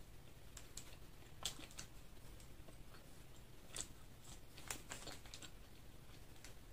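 Crisp crunching and chewing of fried food: a handful of sharp, irregular crunches, the loudest about a second and a half in.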